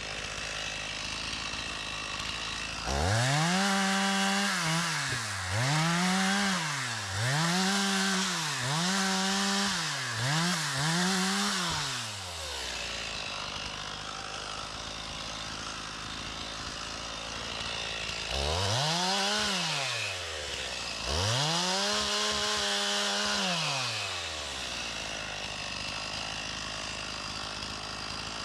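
Stihl MS 391 two-stroke chainsaw throttled up to full revs and let back down, about six bursts of a second or so in quick succession. After a pause at idle it revs twice more.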